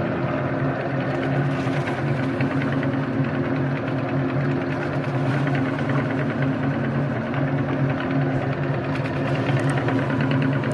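Electric meat grinder running steadily, its motor humming evenly as it grinds chocolate rolls.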